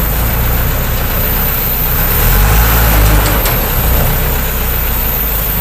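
Heavy diesel engine running steadily at low revs, with a slight swell in level about halfway through.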